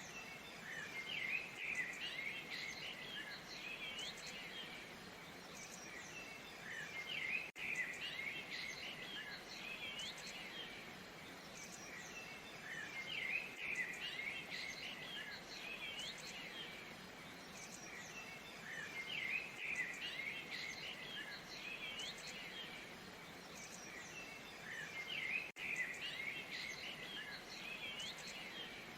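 Small birds chirping and twittering in busy bursts that come back about every six seconds, over a faint steady rush of falling water.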